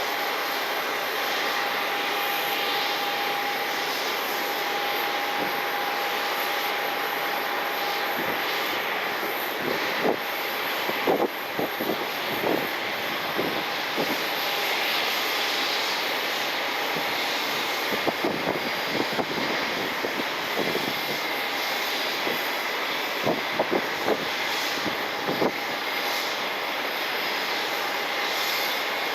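Jet airliner engines running steadily across the airfield, a constant rushing noise with a thin whine held on one pitch. Scattered short knocks come in a few clusters through the middle and later part.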